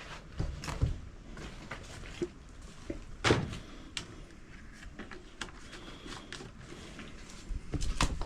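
A few scattered knocks and thuds, the loudest about three seconds in, with no saw or engine running.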